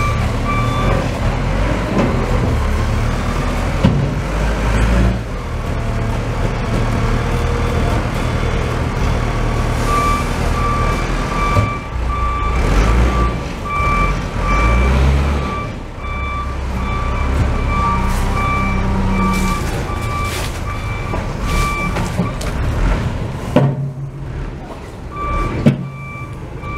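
A heavy vehicle's engine running with its reversing alarm sounding in a steady string of beeps, which pause briefly and start again near the end. A couple of sharp knocks come near the end.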